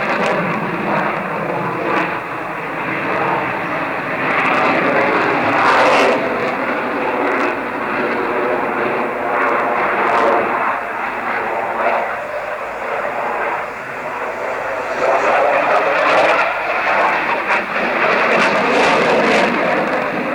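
Jet aircraft flying a display pass, its engine noise swelling and fading as it passes, loudest about six seconds in and again around fifteen to seventeen seconds in.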